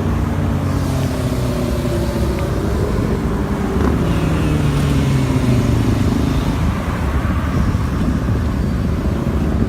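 A motor vehicle's engine running over a heavy low rumble, its pitch slowly falling for a few seconds.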